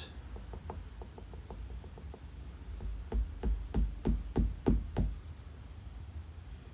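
A quick run of about seven dull knocks, roughly three a second, after a few faint light ticks.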